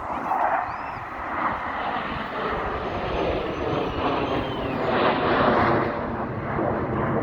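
Engine noise of an airplane flying past, swelling about a second in and staying loud.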